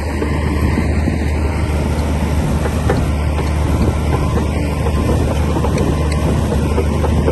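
Komatsu D60P bulldozer's diesel engine running steadily, with a strong low drone and a few faint clicks over it.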